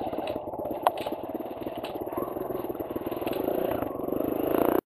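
Kawasaki KLX140L dirt bike's single-cylinder engine running under way, getting louder over the last second, with a sharp click about a second in; the sound cuts off suddenly near the end.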